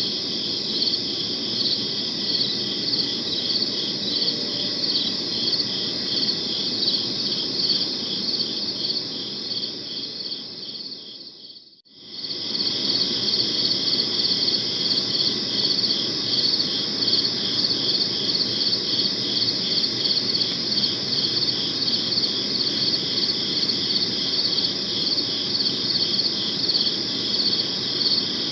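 A dense chorus of crickets chirping in fast, steady pulses. About twelve seconds in, the whole chorus fades out almost completely for a moment and then comes back at full level.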